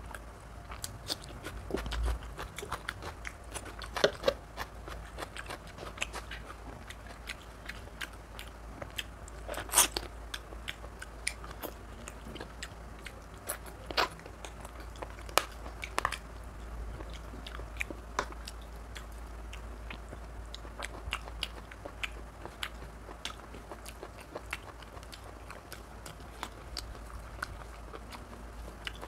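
Close-up eating sounds of mutton curry and rice eaten by hand: wet chewing and mouth smacking, made of many short sharp clicks, with a few much louder snaps.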